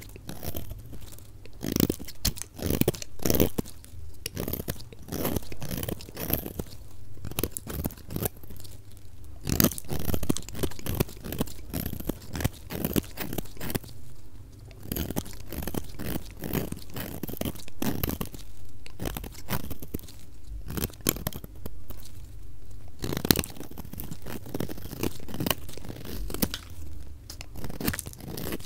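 Knife cutting through a bar of soap: a rapid, dense run of crisp cuts and scrapes, played back at double speed.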